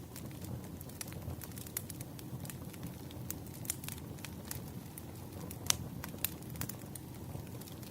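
Wood fire crackling: irregular sharp pops and snaps of burning firewood over a steady low rush of flames, with the loudest pop about two-thirds of the way through.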